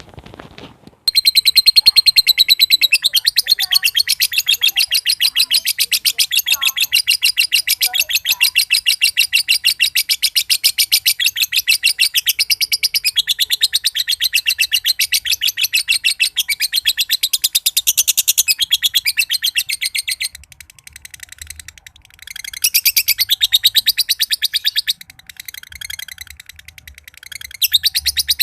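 Green (standard-colour 'josan') lovebird singing its long 'ngekek' chatter: a fast, unbroken run of shrill notes that starts about a second in and lasts nearly twenty seconds. Two shorter bursts of the same chatter follow near the end.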